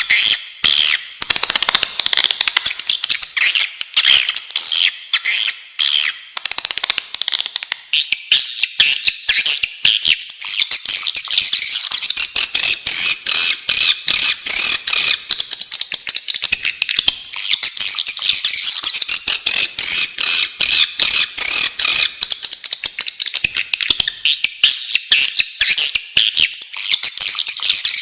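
Swiftlets twittering: a dense, unbroken chorus of rapid high chirps and clicks. This is the kind of swiftlet call recording played as a lure to draw the birds in.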